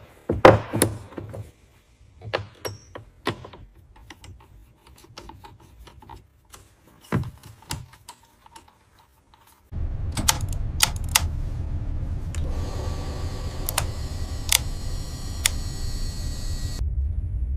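Scattered sharp clicks and knocks like hand tools or switches. About ten seconds in, a steady low machine rumble suddenly starts and keeps running, with more clicks and a high hiss over it.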